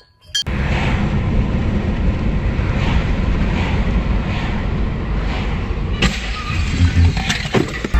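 Steady rumble of a car on the road, engine and tyre noise. It cuts in after a brief dropout at the start and changes tone about six seconds in.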